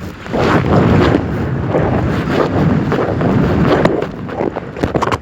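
Wind blowing hard across the microphone: a loud, steady low rumble that eases off near the end.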